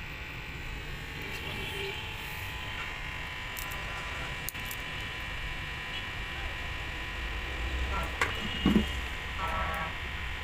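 A steady electrical buzz, like a small motor or transformer running, with a few knocks about eight to nine seconds in.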